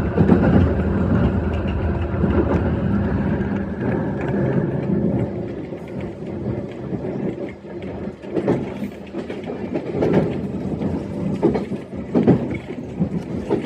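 E131 series electric train running on the line. A steady low hum fades about halfway through, then the wheels give irregular knocks and clacks over the rail joints.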